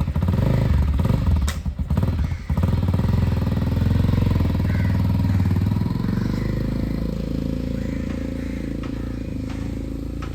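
Tekken motorcycle engine running just after starting, with a couple of brief dips in the first few seconds, then running steadily and slowly getting quieter.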